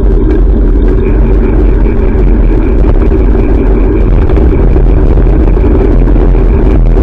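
Wind rushing over a GoPro's microphone on a moving bicycle: a loud, steady low rumble, with a faint high whine from about a second in.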